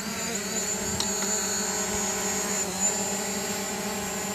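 Quadcopter camera drone hovering close by, its propellers giving a steady multi-tone whine that shifts slightly in pitch near the end. It is holding just above its landing spot on return-to-home, because it senses it is not over solid ground and so won't land.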